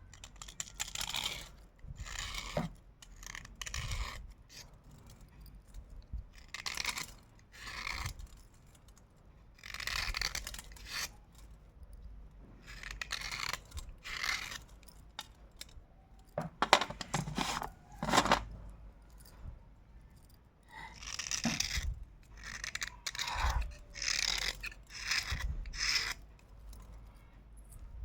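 Close-up crunching of slate pencils being bitten and chewed, in irregular bursts a second or two apart. Two sharper cracks a little past halfway are the loudest.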